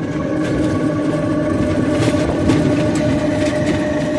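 Steady engine drone and road or hull rumble of a passenger vehicle in motion, heard from inside, with a few light rattles about halfway through.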